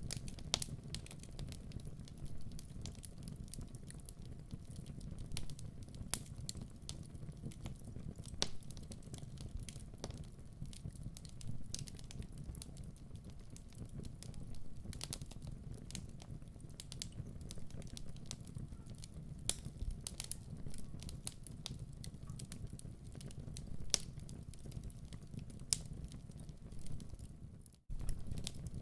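Wood fire burning in a fireplace: a steady low rumble of flames with irregular sharp crackles and pops. The sound cuts out for a moment near the end, then resumes.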